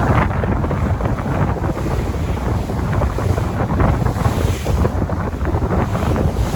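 Sea waves washing continuously, with wind noise buffeting the microphone.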